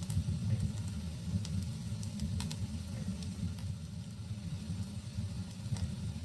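Wood fire burning in a fireplace: a steady low rumble of the flames with scattered sharp crackles, the loudest ones about two and a half seconds in.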